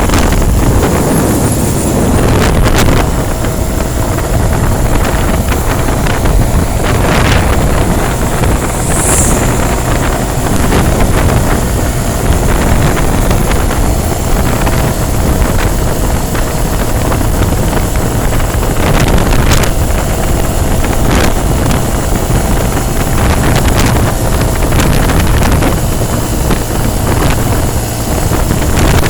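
Steady rumble of a moving vehicle on the highway, with wind buffeting the microphone and a few brief knocks.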